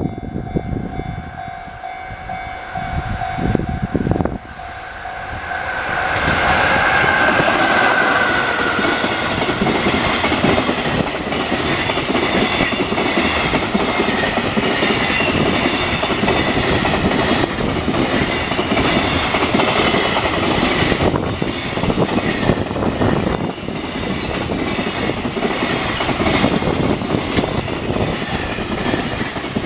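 Japanese level-crossing warning bell ringing steadily. About six seconds in a train arrives with a short horn blast and passes over the crossing for the rest of the time: a continuous loud rumble with the rhythmic clatter of wheels over rail joints.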